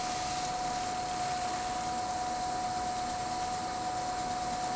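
Wood lathe running steadily at about 530 rpm, its motor giving a constant whine over a soft rushing hiss, while a cloth buffs wax on the spinning wooden bowl.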